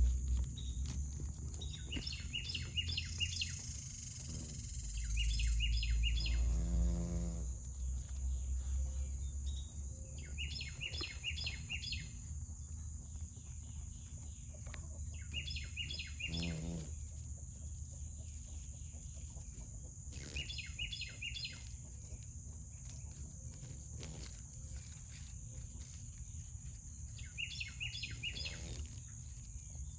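Outdoor summer ambience: a bird calls in short clusters of quick chirps every few seconds over a steady high-pitched insect buzz. Twice a farm animal gives a short low call.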